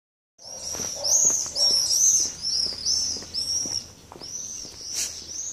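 A small bird chirping over and over, short high chirps about two a second, with a few faint clicks underneath.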